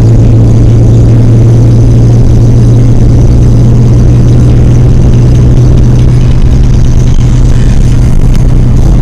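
Car engine and road noise heard from inside the cabin while driving: a steady, very loud low drone with no change in pitch.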